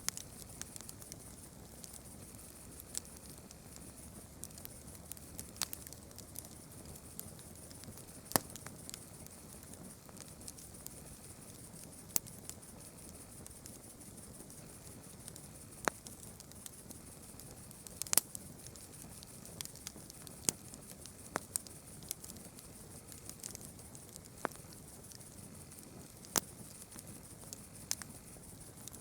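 Campfire crackling, with sharp irregular pops scattered through a steady high-pitched background hiss.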